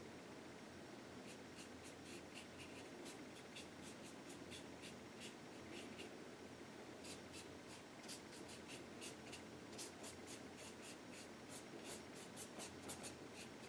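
Faint scratchy strokes of a paintbrush on canvas, short dabs about two a second, coming faster about halfway through.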